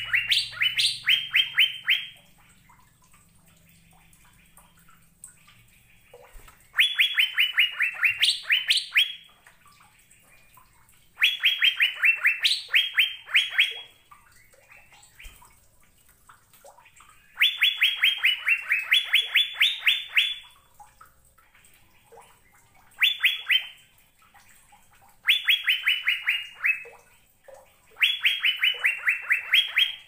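Fairy-bluebird (cucak biru) singing in about seven bursts. Each burst is a quick run of clear whistled notes, slightly falling in pitch, and the bursts are separated by pauses of one to four seconds.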